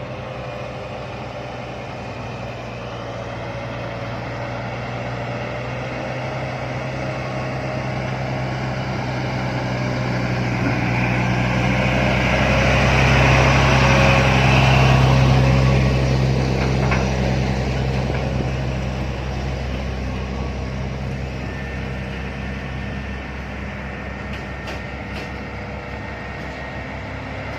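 Heavy diesel container truck's engine working under load as it climbs past, growing louder to a peak about halfway through and then fading away as it moves off.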